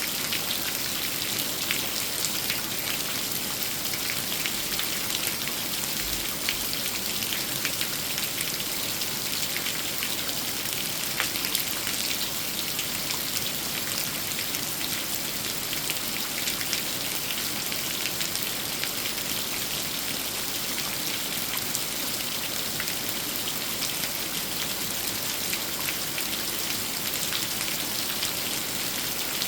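Steady rain, a dense patter of many separate drops hitting surfaces.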